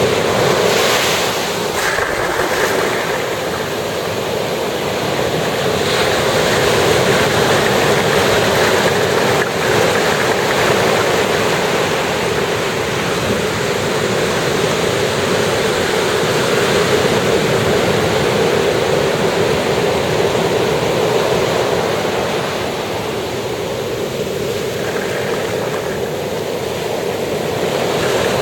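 Ocean surf breaking and washing up a beach in a continuous rush, swelling and easing gently in loudness.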